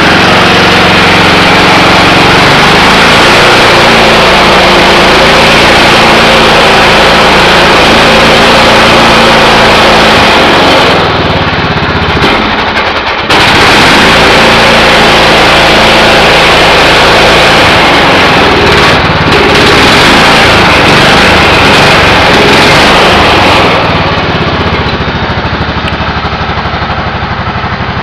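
Cub Cadet 2166 garden tractor engine running steadily just after a cold start. It dips briefly about eleven seconds in and runs a little quieter and duller near the end.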